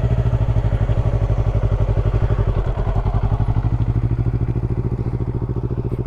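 Motorcycle engine idling steadily close by, an even, rapid pulsing beat that eases slightly near the end.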